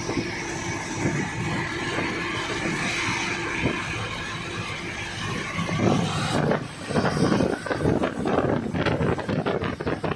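A moving vehicle running steadily, heard from on board, with irregular rattling and clattering starting about six seconds in.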